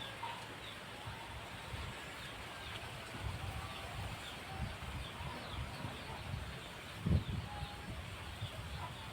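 Wind buffeting the microphone in low rumbling gusts, one stronger gust about seven seconds in, with birds chirping over it in many short falling notes.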